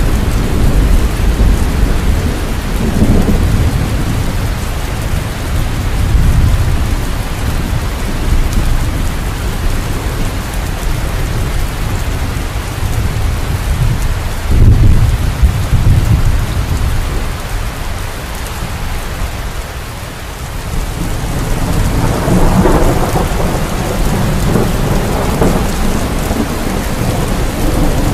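Steady heavy rain with rolling thunder. Low rumbles swell several times, loudest about halfway through, and a long rumble builds again in the last third.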